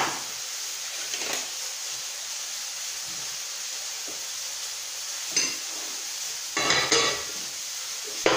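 Marinated chicken breast sizzling steadily in oil in a hot frying pan over medium heat. A few short clatters of kitchenware knock over it, with a cluster about two-thirds of the way through.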